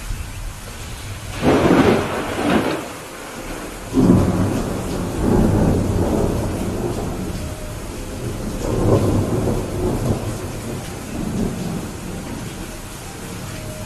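Steady rain with thunder: a sharp clap about a second and a half in, then a second crack about four seconds in that rolls on as low rumbling, swelling again before it fades near the end.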